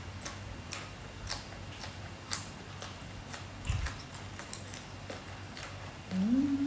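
Crisp crunching of raw long beans being bitten and chewed, a sharp click every half second or so. Near the end comes a louder low tone that rises and then falls in pitch.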